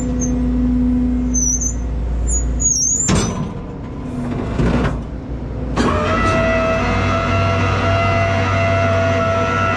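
Diesel engine of a Hino rollback tow truck running, with a few knocks a little after the middle. About six seconds in, a steady whine with several tones comes in and holds.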